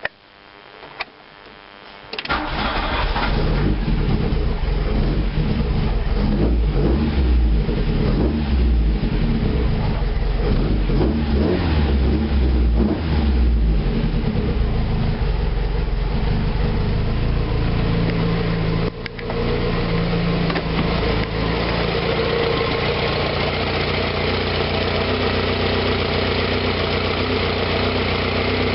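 First start of a Golf 1 GTI 1.6 EG inline-four on twin Weber 40 DCOE carburettors with a 4-1 header and 2-inch exhaust: the starter cranks it for about two seconds, then it catches and runs loudly, its speed rising and falling. About nineteen seconds in it briefly dips, then settles into a steadier idle.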